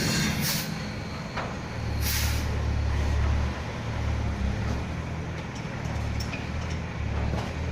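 Hyundai dump truck's diesel engine running with a steady low rumble, with two short air-brake hisses about half a second and two seconds in.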